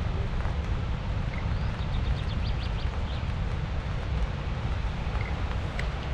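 Wind on the microphone: a steady low rumble over an even rushing hiss, with a few faint high chirps a couple of seconds in.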